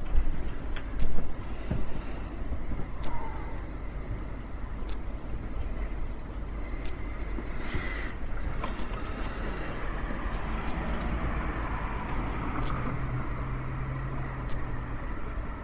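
Street ambience with a motor vehicle running, a steady background rumble with a few sharp clicks and knocks scattered through it. A low steady hum comes in during the last few seconds.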